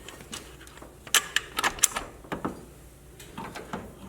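Light metal clinks and taps, about nine in all and bunched together in the middle: a bolt and spacer being worked into place between an A/C compressor and its steel mounting bracket.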